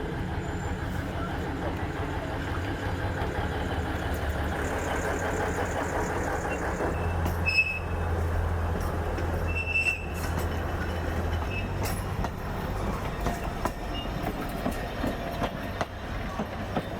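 Alishan Forest Railway train moving slowly past: a steady low engine hum with scattered clicks from the wheels, and two short high wheel squeals about seven and ten seconds in.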